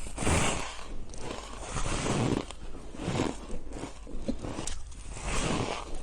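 Biting into and chewing shaved ice: a series of crisp, irregular crunches.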